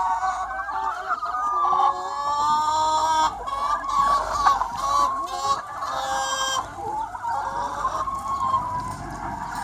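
A large free-range flock of hens clucking and calling, many birds at once with their calls overlapping into a constant chorus.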